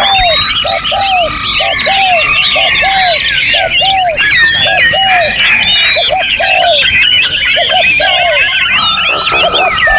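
Dense chorus of many songbirds singing at once: overlapping whistles, trills and rising and falling notes. Under them a lower arched note repeats about twice a second.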